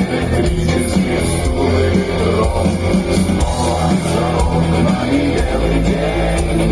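Rock band playing loud and live through a concert sound system, electric guitar over a heavy bass line, with no vocals heard clearly.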